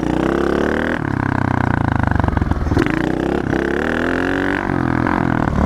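Pit bike engine revving hard under throttle in a wheelie attempt. The pitch climbs and drops back about three times.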